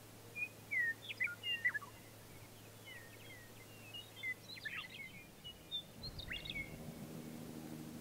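Songbirds singing in open grassland: a busy run of short chirped and whistled notes. A low droning hum comes in about three-quarters of the way through.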